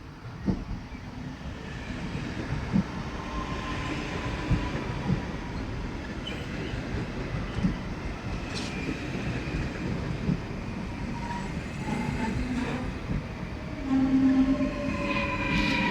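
Train running on the track: a steady rumble with occasional short knocks. About fourteen seconds in it grows louder, and several whining tones slide down in pitch.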